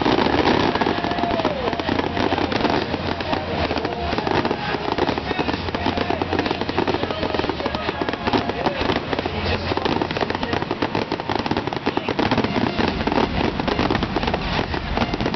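Fireworks finale: a dense, continuous barrage of rapid bangs and crackling from ground fountains and low-bursting shells.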